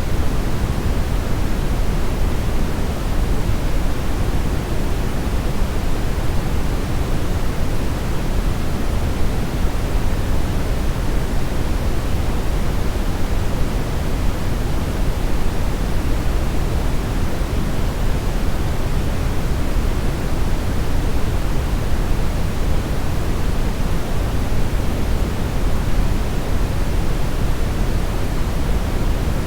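Steady synthetic brownish noise: an even, unbroken rumble-heavy hiss, strongest in the bass and thinning toward the treble, with no events or changes.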